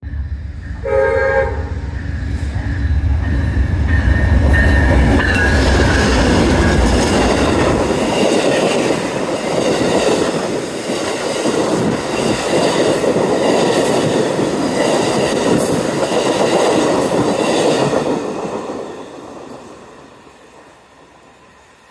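Amtrak diesel passenger train passing close by. A short horn blast comes about a second in, with the locomotive's heavy engine rumble for the first several seconds. The passenger cars' wheels then clatter over the rails for about ten seconds, and the sound fades away as the train goes.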